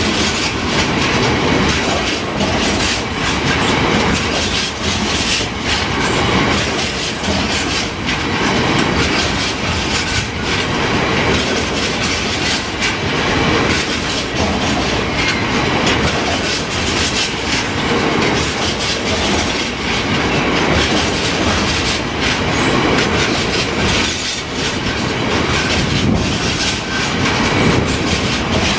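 Long freight train of GBRf covered biomass hopper wagons rolling past close by: a steady, loud rumble of wheels on rails, with repeated clicks as the wheels cross rail joints.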